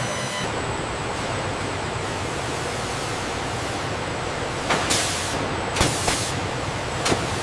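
Steady industrial noise with a low hum, and from a little past halfway, three or four short hissing bursts like compressed air being let off.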